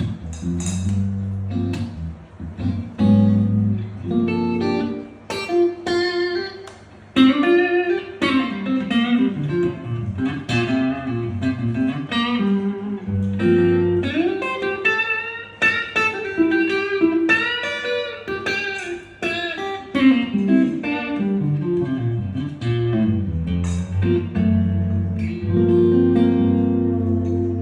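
Guitar playing a run of picked single notes over low bass notes, with a few notes bent upward about halfway through and a chord held near the end.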